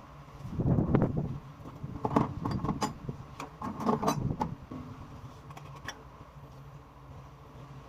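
Sharp metallic clicks and knocks, as of hand tools working on metal fittings, heaviest in the first five seconds, over a steady low machinery hum.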